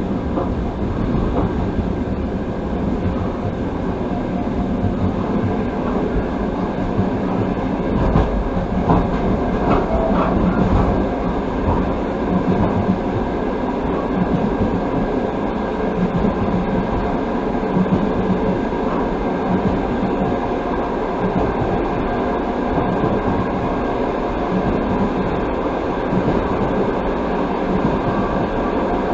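A passenger train coach running along the line, heard from inside at the window: a steady rumble of wheels on rail, with a few slightly louder knocks between about eight and eleven seconds in.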